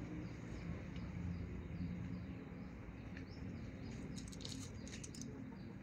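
Small birds chirping faintly and repeatedly over a steady low background drone, with a few brief high clicks about four seconds in.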